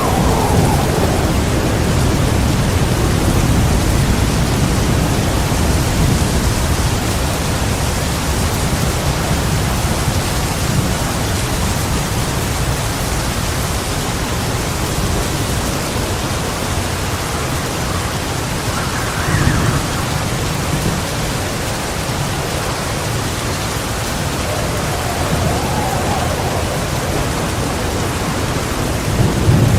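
Heavy rain pouring steadily, with rolling thunder: a low rumble dying away over the first few seconds, further swells of thunder around a third and two thirds of the way through, and another rumble building near the end.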